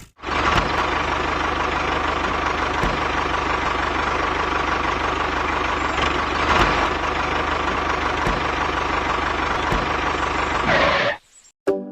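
Small motor of a handmade model machine running steadily, then cutting off abruptly near the end.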